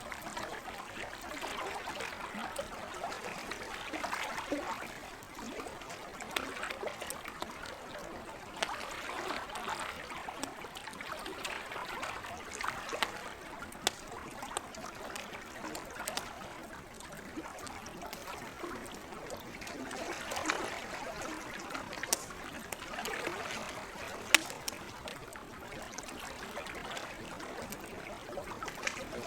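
Campfire crackling with scattered sharp pops, one much louder than the rest about three quarters of the way through, over lake water gently lapping and trickling in slow swells.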